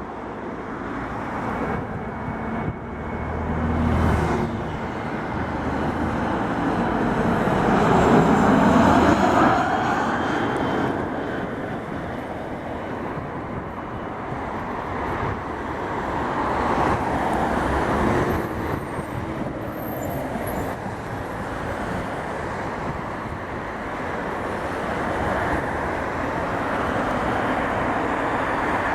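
Boeing 737-400's CFM56-3 turbofan engines heard as the airliner comes in to land. The broad jet noise swells to its loudest about eight to nine seconds in as it passes, then rises again briefly near eighteen seconds.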